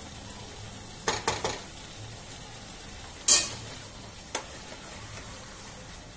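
Chicken and masala frying in oil in a kadai, with a steady sizzle, while a spatula scrapes and stirs against the pan. There is a quick run of scrapes about a second in, the loudest scrape just past three seconds, and one more a second later. This is the kosa stage, with the mixture fried down until the oil separates.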